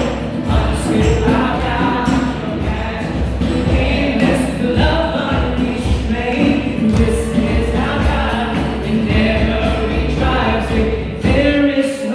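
Live gospel worship music: singers and a choir over a band with a steady bass beat and regular percussion strokes.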